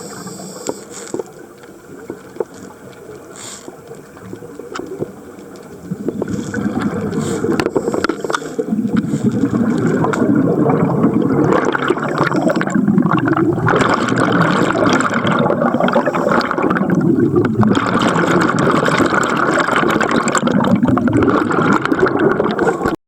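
Underwater bubbling and gurgling, as from a scuba diver's exhaled bubbles. It gets much louder about six seconds in and breaks off briefly twice.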